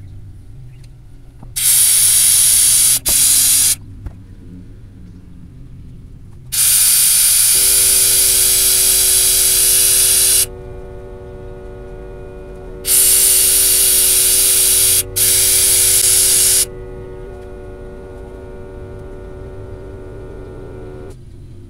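Compressed-air vacuum brake bleeder on a brake bleed screw, hissing in five bursts of air, the longest about four seconds, as the brake fluid is drawn through. A steady hum with several pitches starts about seven seconds in and stops near the end.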